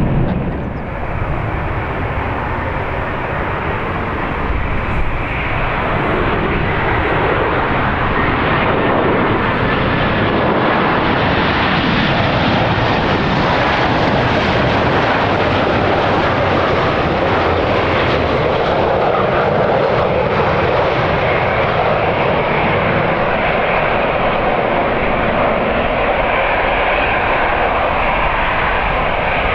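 Jet airliner engines roaring steadily as the aircraft passes. The noise fills in and grows brighter over the first several seconds, then holds at full strength.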